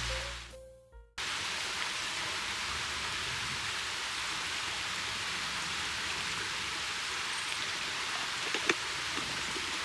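Music fading out, then a steady, even outdoor hiss with a couple of faint ticks near the end.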